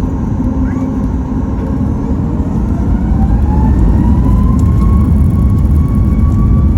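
Boeing 737-9 MAX's CFM LEAP-1B turbofan engines heard from inside the cabin, spooling up for takeoff: a deep rumble with a whine that rises in pitch and grows louder from about halfway through, then holds.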